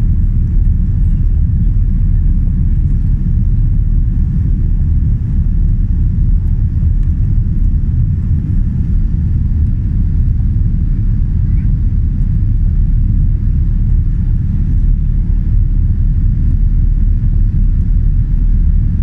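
Steady low rumble of engine and airflow noise inside the cabin of a Boeing 787 Dreamliner airliner.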